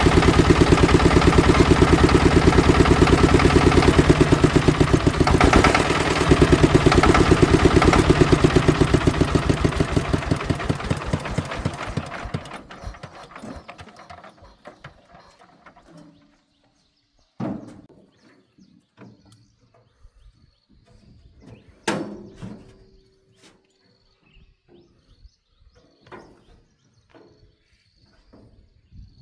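A farm vehicle's engine running at idle, then shut off: its even firing slows and dies away about twelve to fourteen seconds in. After that come a few scattered knocks, the two loudest around seventeen and twenty-two seconds in.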